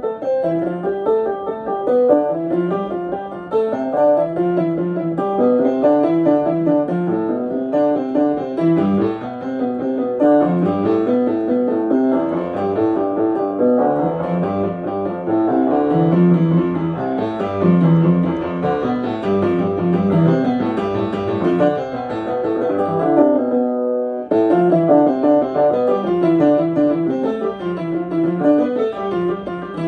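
Piano playing fast, even running notes in repeating patterns that climb and fall, like a finger exercise. The playing breaks off briefly about 24 seconds in, then starts again.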